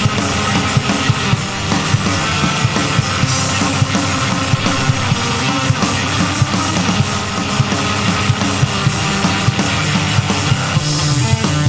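Loud, heavy noise rock: distorted electric guitars over a busy, hard-hit drum kit.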